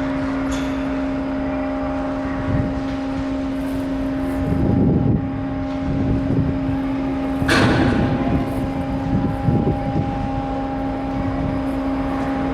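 Steady mechanical drone of a car ferry's engines, one low hum holding a fixed pitch throughout. Rougher rushing noise swells over it a few times, the strongest about halfway through.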